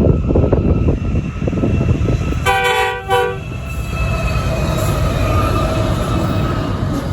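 Pacific National freight train running past with a steady heavy rumble, and one short horn blast about two and a half seconds in.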